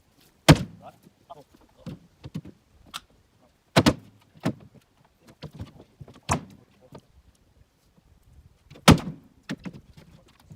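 Firewood being handled: four loud, sharp wooden knocks about two and a half seconds apart, with lighter knocks and clatter between them.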